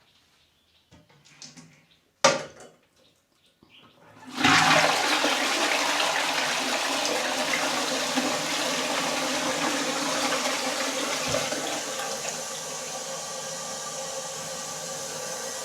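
A sharp knock about two seconds in, then a toilet flushing: a sudden loud rush of water that eases after several seconds into a steadier, quieter flow, the newly plumbed cistern emptying and refilling.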